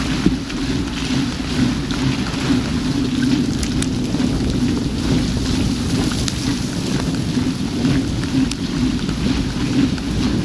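Mountain bike rolling through heavy rain on a wet, water-covered street: a steady rush of tyre spray and falling rain, with wind on the action camera and scattered small ticks of raindrops striking it.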